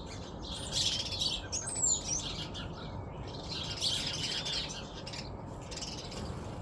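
Small birds chirping in two bursts, about a second in and again around four seconds, over a steady low background noise.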